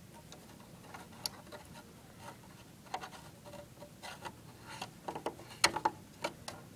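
Thermostat knob of an old Sears Coldspot window air conditioner being turned back and forth: scattered small clicks and rattles, the loudest about five and a half seconds in. The thermostat is stiff and touchy, and the owner blames it for keeping the compressor from running.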